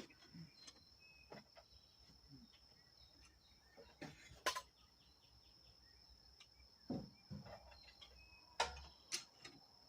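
A few sparse sharp clicks and knocks of hand tools, a wrench and socket being worked, with a short run of faint ticks like a ratchet, over a faint steady high-pitched insect drone.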